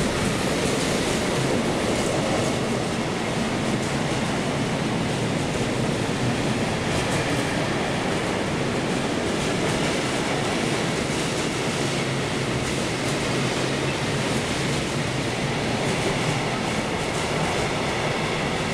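A train rolling past on the tracks: a steady, even noise of wheels running on rail.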